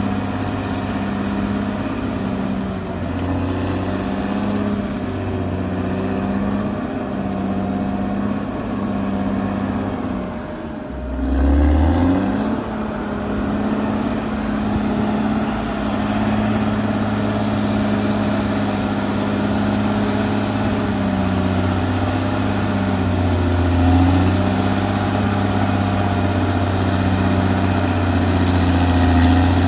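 Caterpillar D6R XL bulldozer's diesel engine running under working load, its pitch wavering as the load changes. About a third of the way in it drops briefly, then revs back up.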